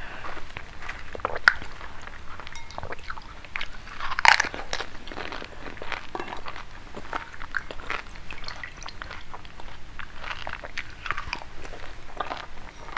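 Close-miked crunching and chewing of pani puri: crisp fried puri shells cracking in the mouth, with bites of green chilli, in quick irregular crunches, the loudest about four seconds in.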